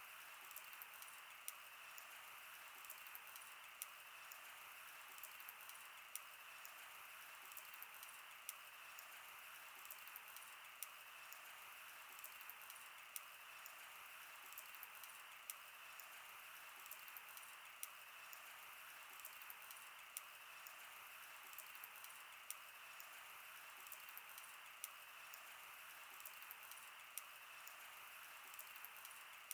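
Wood fire burning: a steady soft hiss with dense small crackles, and sharper pops every two seconds or so.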